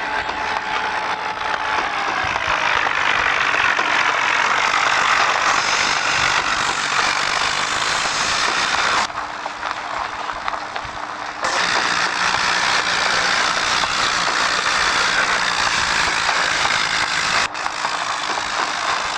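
Heavy diesel engines of a bulldozer and a Mahindra tractor running hard under load in a tug of war, a loud dense engine noise. The sound cuts out abruptly and comes back about halfway through and breaks again near the end.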